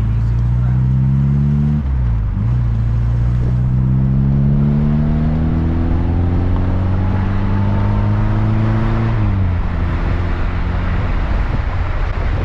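Small car engine of an MG Midget pulling under acceleration: its pitch dips with a gear change about two seconds in, climbs steadily for several seconds, then falls away near the end as the throttle eases.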